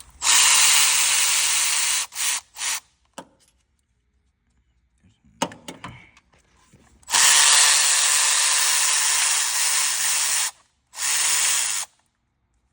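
Handheld power tool run in two long pulls of about two and three seconds, each followed by short blips, spinning out fasteners while timing-chain parts are being removed.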